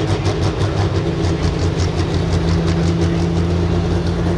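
Limited pro stock diesel pickup truck's engine running hard under load on a pull, steady, with a fast, even clatter over it.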